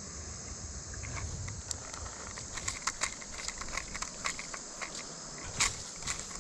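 Steady high-pitched chorus of insects, such as crickets or katydids, with scattered small ticks and clicks over it.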